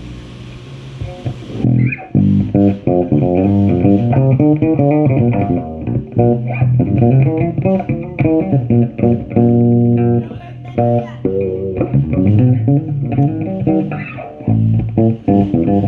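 Bass guitar played through an amplifier in a sound check, a quick run of plucked notes changing pitch several times a second, with a hiss at the start that stops about two seconds in.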